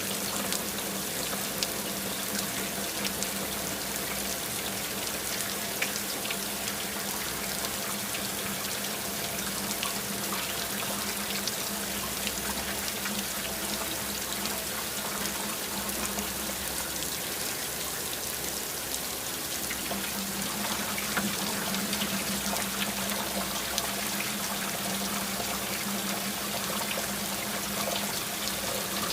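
Steady rain: a dense, even hiss of falling water with many small drop ticks. A low steady tone sits beneath it and drops out for a few seconds midway.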